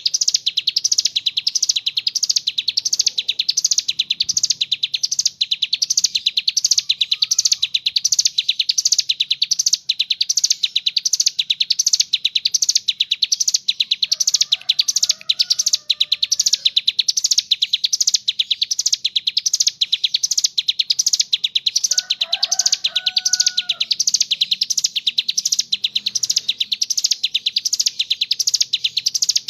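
Ciblek gunung, a small prinia, singing a non-stop high, fast trill, repeated in even pulses without a break. A second bird gives a few lower whistled calls faintly in the middle and again later.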